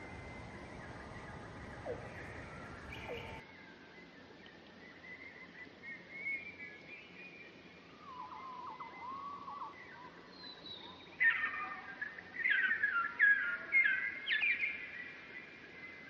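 Wild birds chirping and calling over a faint outdoor background, several short whistled notes at first, then a louder run of quick, falling chirps in the second half.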